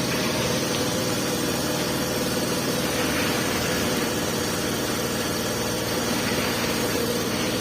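A steady engine or motor running at a constant speed, an even unbroken hum.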